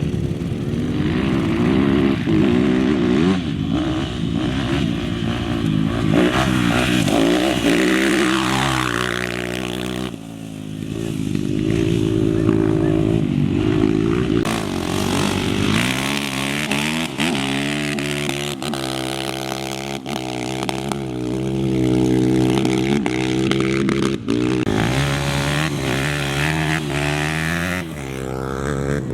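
Small off-road race engines revving up and down as race vehicles pass one after another, the pitch climbing and dropping with each gear change and pass.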